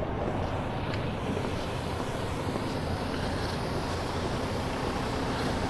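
Diesel engine running steadily, a continuous low mechanical hum.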